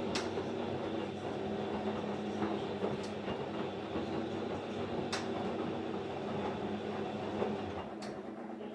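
AEG Lavamat 804 front-loading washing machine in its wash phase, the drum motor humming steadily, with a few sharp clicks. The low hum eases off near the end.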